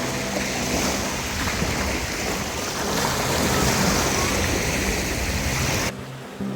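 Surf washing on a beach, a steady rush that swells about midway and cuts off suddenly near the end. Soft background music plays underneath.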